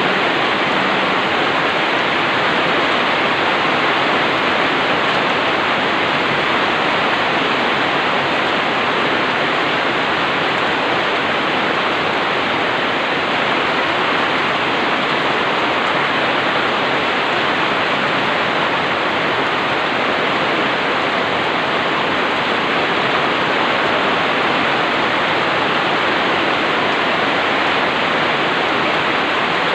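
Steady rain falling on a roof: an even, unbroken hiss with no single drops standing out.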